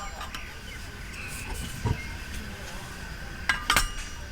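Dishes and utensils clinking: a soft knock about two seconds in, then a quick cluster of sharp clinks near the end.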